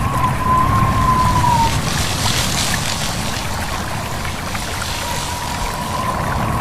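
Steady rush of a flowing stream and wind, with a deep low rumble under it and a brief swell of brighter hiss about two seconds in. A thin, slightly wavering whistle-like tone sounds over it at the start and comes back about five seconds in.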